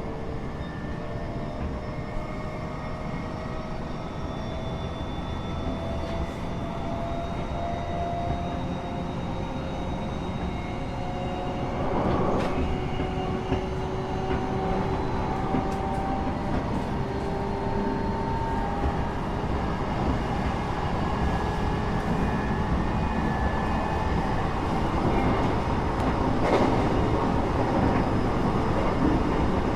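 Train running, heard from inside the carriage: a steady low rumble with a whine from the drive that rises slowly in pitch as the train picks up speed, and a few sharp clicks from the track.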